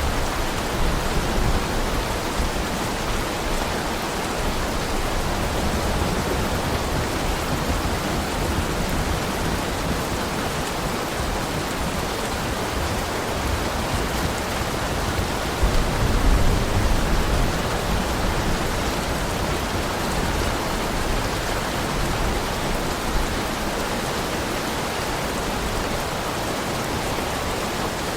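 Heavy rain falling steadily: a dense, even hiss with a low rumble underneath, swelling briefly louder about sixteen seconds in.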